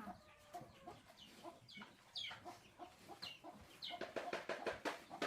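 Chickens clucking, with short high calls that fall in pitch scattered through. Near the end comes a quick run of sharp clicks or taps.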